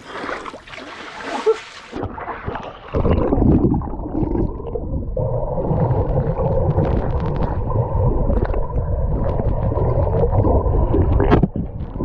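Pool water heard with the microphone submerged: muffled underwater gurgling and bubbling. For the first two seconds the sound is still open and splashy, then it turns muffled and dull as the microphone goes under.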